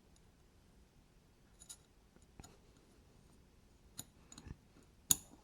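A few faint, scattered clicks and taps of small knife parts and tools being handled during reassembly of a folding knife, with one sharper, louder click near the end.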